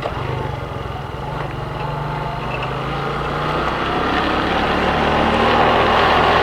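Motorcycle engine running steadily, growing gradually louder toward the end.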